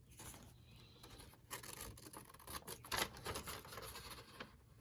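Faint rustling and handling of paper on a work surface, with a few soft ticks and a sharper one about three seconds in.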